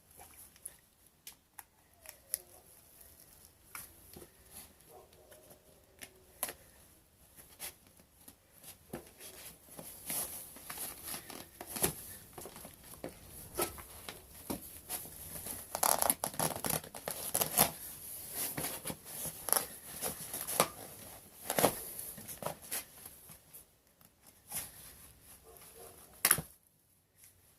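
A gray Converse canvas sneaker being crushed and torn apart: irregular crackling, scraping and ripping sounds with sharp clicks, busiest through the middle and dying away near the end.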